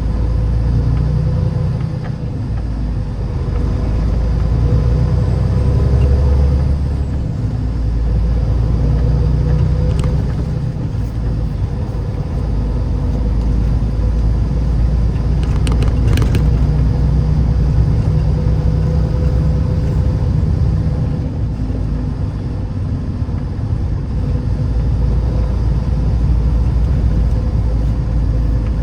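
Vehicle driving on snowy roads: a steady low rumble of engine and tyres that swells and eases, under a faint steady hum. A few brief clicks sound about ten and sixteen seconds in.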